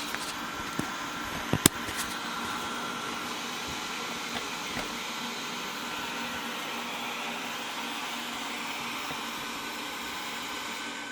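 Wyze robot vacuum running steadily, with a high whine over its whir, as it drives back to its charging dock. A sharp click sounds about a second and a half in.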